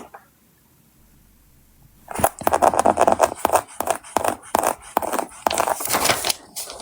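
Hands scratching, rubbing and crinkling at sticker sheets. About two seconds in, after a quiet start, a dense run of quick scratchy clicks and rustles begins.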